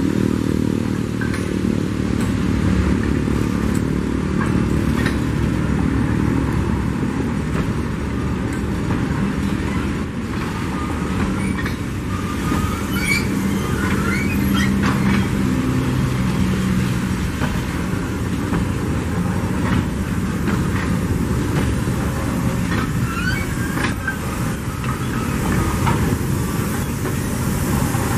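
Loaded hopper wagons of a freight train rolling past close by: a steady rumble of steel wheels on rail, with scattered clanks and brief high squeaks from the wheels, most of them in the middle of the passage.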